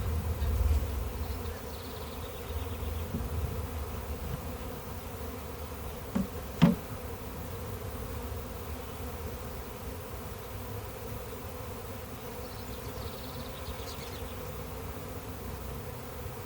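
A honey bee swarm buzzing: a steady hum of many bees in the air. A single sharp click, the loudest sound, comes about six and a half seconds in, with a fainter one just before it.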